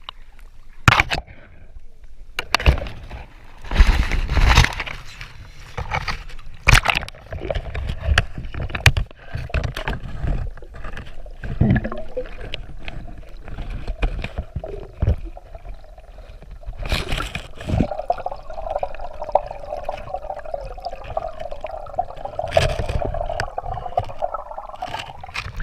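Underwater gurgling and sloshing heard through a submerged phone, with irregular knocks and scrapes as it is moved about in swamp water; about two-thirds of the way through a steadier droning tone joins in.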